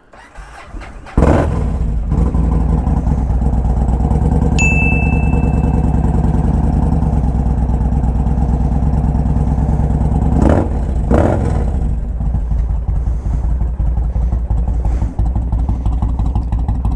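Cold start of a Yamaha Warrior's air-cooled V-twin: a moment of starter cranking, then the engine catches about a second in and settles into a deep, loud, steady idle. There are two quick throttle blips about ten and eleven seconds in, and a short high beep about five seconds in.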